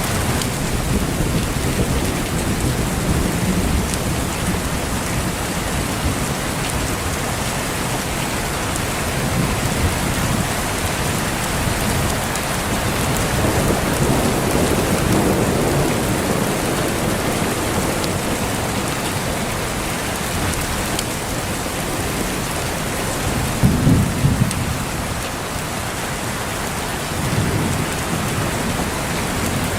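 Steady heavy rain with rolling thunder rumbling low beneath it, the loudest rumble about three-quarters of the way through.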